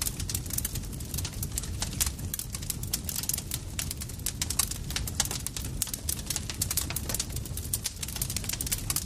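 Campfire crackling: many quick, irregular snaps and pops over a steady low rumble of burning wood.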